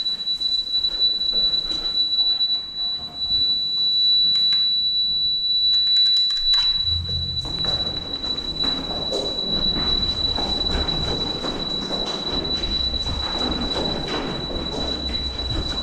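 A continuous high-pitched electronic warning tone from a powered roof hatch or smoke vent control, sounding while the hatch is being opened, with low rumbling noise underneath from about seven seconds in.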